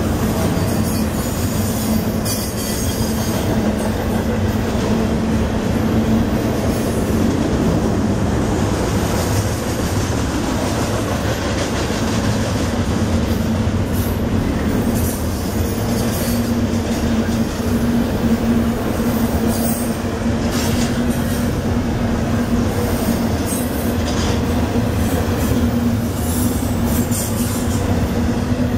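Double-stack intermodal container train passing close by on well cars: a steady rumble of steel wheels on rail with a low hum, and brief high-pitched wheel squeals now and then.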